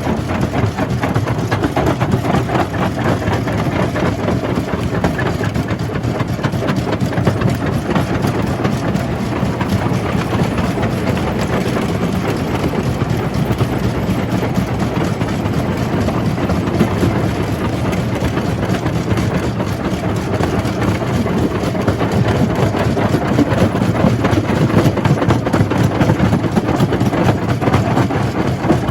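Jaw crusher running at a quarry, crushing rock with a steady heavy mechanical drone and a dense, continuous gritty rattle of stone.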